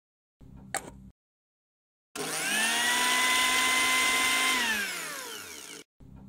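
Lock&Lock personal blender motor chopping red chili peppers: it starts with a quick rising whine, runs steadily, then winds down with a falling pitch and stops. About a second in there is a short plastic click as the jar is seated on the base.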